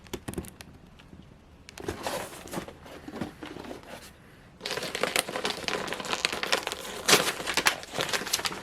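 Snack packaging being handled: plastic wrappers and paper crinkling and rustling, with scattered faint crackles at first and steady, louder crinkling from about halfway through.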